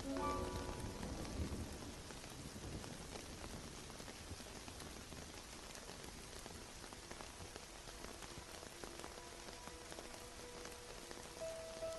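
Steady rain falling, an even patter throughout. Soft piano notes fade out in the first second or two along with a low rumble, and the piano returns quietly from about three-quarters of the way in.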